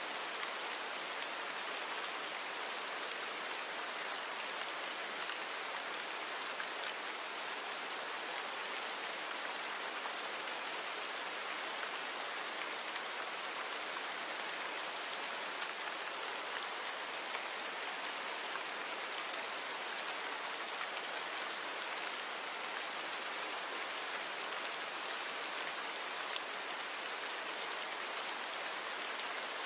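Steady rain falling, an even hiss of many drops with faint scattered patter, noise-reduced with the low end thinned out.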